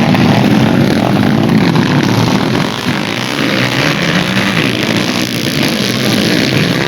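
Dirt bike engines running hard in a race, their pitch rising and falling as the riders rev and shift.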